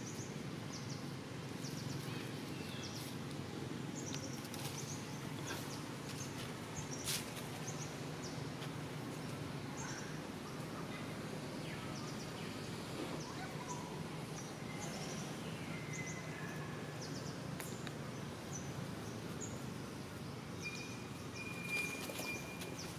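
Outdoor woodland ambience: a steady low background noise with scattered short, high bird chirps, one sharp click about seven seconds in, and a longer whistled bird note near the end.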